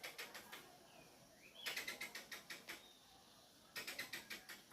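A squirrel calling in three bouts of rapid, sharp chips, about eight a second, each bout lasting under a second with short pauses between.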